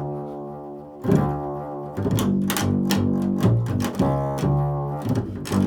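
Improvised music on a plucked string instrument: low, ringing notes plucked one after another, with a sharp pluck about a second in and quicker plucks toward the end.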